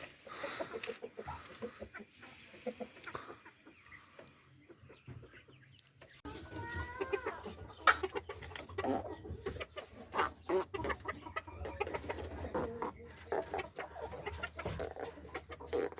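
Chickens clucking in a cage, sparse and soft at first, then busier from about six seconds in, with a drawn-out wavering call about seven seconds in.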